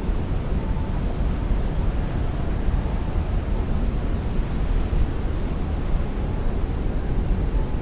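Heavy rain beating on a window pane with strong wind, a steady dense hiss over a deep, even rumble with no let-up.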